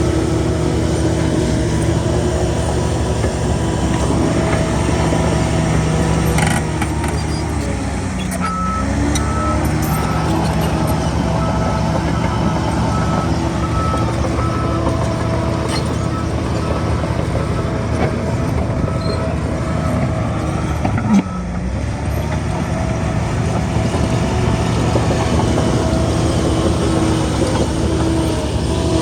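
Bulldozer diesel engine running steadily under load, its revs dipping briefly and recovering. A reversing alarm beeps about once a second through the middle of the stretch, and there is a single knock near the end of the beeping.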